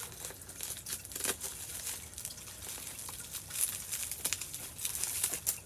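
Packaging crinkling and crackling in irregular bursts as a tightly stuffed pack is handled and opened.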